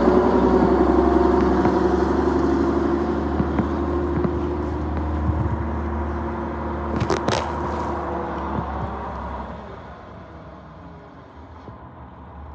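Garbage truck engine running, its sound fading steadily over about ten seconds as the truck moves off. A short, sharp burst of noise comes about seven seconds in.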